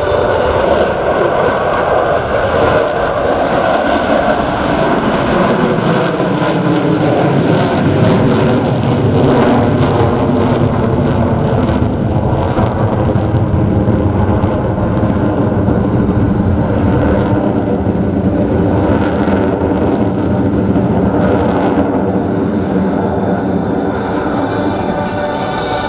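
Jet noise from Blue Angels F/A-18 Super Hornets flying past in formation: a loud, steady rush of engine noise with gliding pitch.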